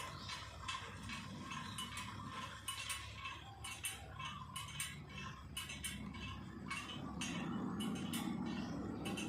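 Light metallic clicks and clinks, a few a second and irregular, as hand tools work on motorcycle parts. A low hum grows louder about seven seconds in.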